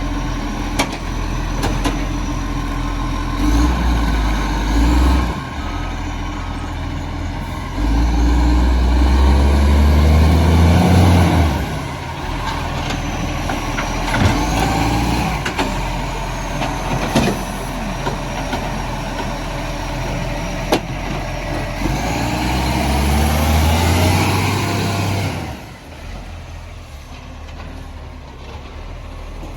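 Garbage truck's engine revving up three times from idle, with rising and falling whines and scattered knocks and clanks, the usual sound of the truck powering its hydraulic bin-lifting gear; it settles back to a lower idle near the end.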